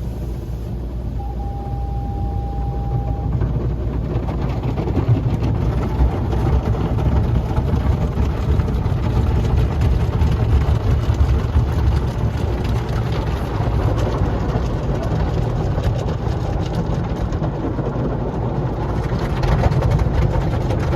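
Automatic car wash running: continuous deep noise of water spray and machinery, growing louder about four seconds in. A steady tone sounds for about two seconds near the start.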